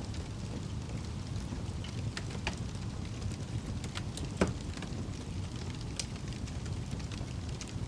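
Wood fire crackling in a fireplace: a steady low rumble of burning with scattered sharp pops and crackles, the loudest pop about four and a half seconds in.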